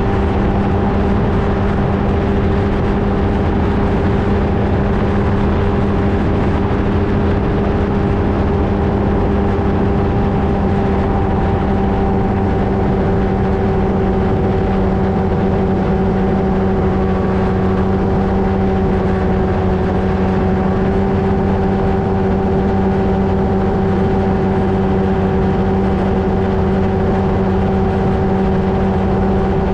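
Flightstar II ultralight's two-stroke engine and propeller droning at a steady, unchanging speed, heard from a camera mounted on the aircraft.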